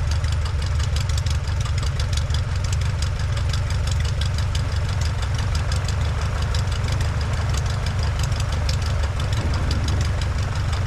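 Aeronca 7AC Champ's engine running steadily at low taxi power as the plane taxis back to the runway: an even, fast low-pitched beat with steady noise above it.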